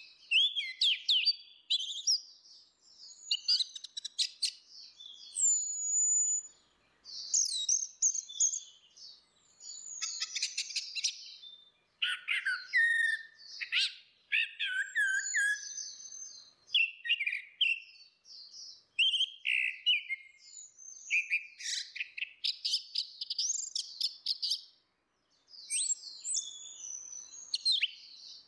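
Orange-headed thrush (anis merah) singing: a long run of quick, varied high-pitched whistled phrases, with brief pauses about 12 seconds and 25 seconds in.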